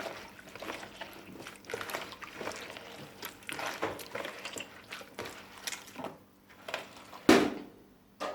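Hands kneading chopped lemons and orange with sugar and mint in a bowl: irregular wet squishing and rustling, with one louder bump about seven seconds in.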